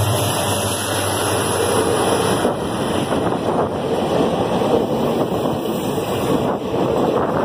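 Two passenger trains passing each other close by, their coaches rolling past on both sides: a steady loud rumble and clatter of wheels on the rails. A faint high whine fades away over the first few seconds.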